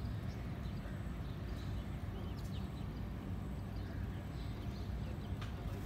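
Outdoor ambience: a steady low rumble with scattered short, faint bird chirps over it and an occasional sharp click.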